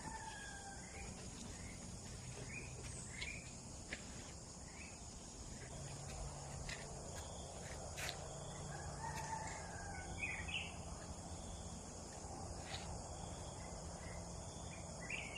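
Outdoor garden ambience: a steady high-pitched drone of insects, with short bird calls chirping here and there and a few sharp clicks.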